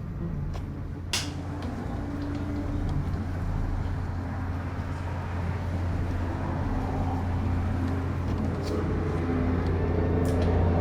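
A steady low mechanical hum, like a motor or engine running, slowly getting a little louder, with a single sharp click about a second in.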